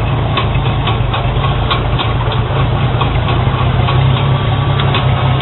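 1958 Oliver 770 tractor engine running steadily, still cold after sitting unused for three to four days, with a faint regular ticking over its steady low note.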